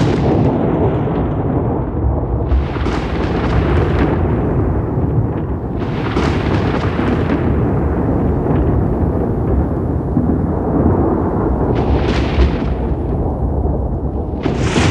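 Thunder rolling in a continuous deep rumble, with sharp crackling thunderclaps breaking over it four or five times.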